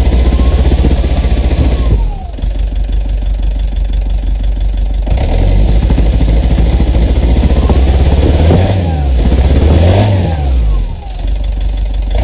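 Fiat Ducato's 2.5-litre four-cylinder turbo diesel running cold after a winter cold start, being revved: it drops back to idle about two seconds in, climbs again about five seconds in, and is blipped up and down twice near the end.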